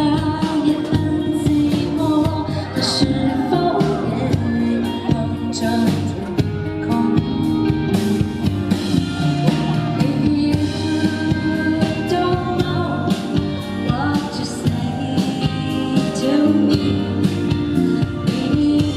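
Live pop band performance with a singing voice over the band.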